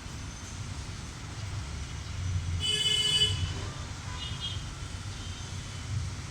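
A vehicle horn sounds one short toot over a steady low rumble of traffic.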